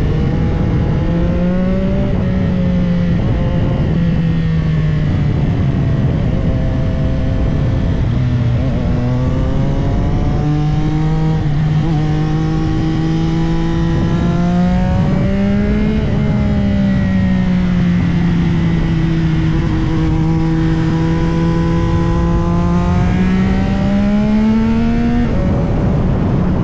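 CFMOTO 675SR-R's inline three-cylinder engine running hard while riding, its pitch rising and falling with the throttle and dropping sharply a few times, the largest near the end, under a steady rush of wind noise.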